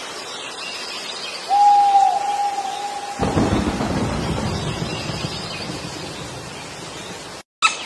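Steady rain with a low rumble of thunder that starts about three seconds in and slowly fades. Just before the thunder, a single whistle-like tone is held for under two seconds.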